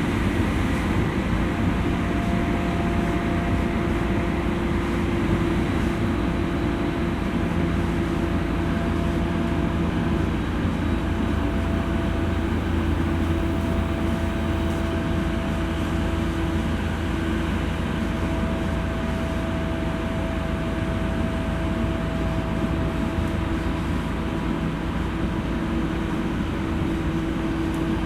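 JR East E231 series electric commuter train running at steady speed, heard from inside the car: an even rumble of wheels on rail with a faint steady whine.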